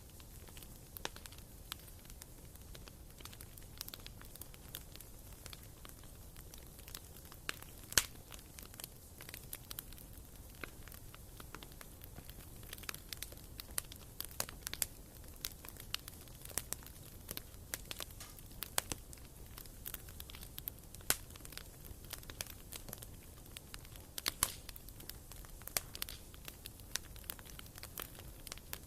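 Wood fire burning in a fireplace: irregular sharp crackles and pops over a low steady hiss, the loudest pop about eight seconds in.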